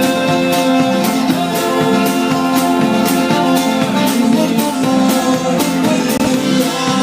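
Live band playing an instrumental passage led by guitar, with sustained notes over a steady beat.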